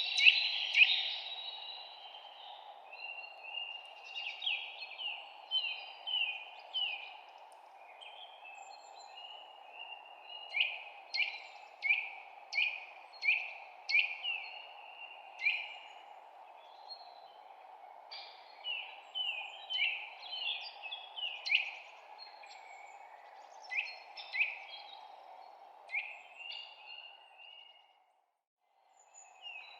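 Songbirds chirping: runs of short, quick, downward-sliding chirps repeated in groups, over a steady background hiss. Everything breaks off for about a second near the end, then the chirping resumes.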